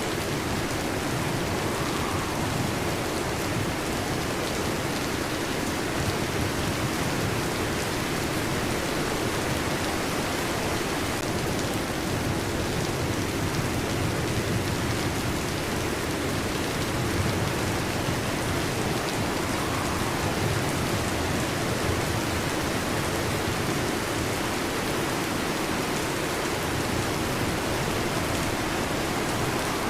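Steady heavy rain with a low rumble underneath.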